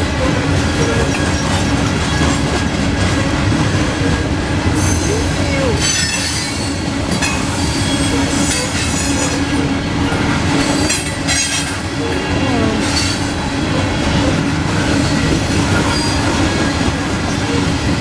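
CSX coal train's open-top hopper cars rolling past close by: a steady rumble of steel wheels on the rails, with bursts of high-pitched wheel squeal about five, ten and thirteen seconds in.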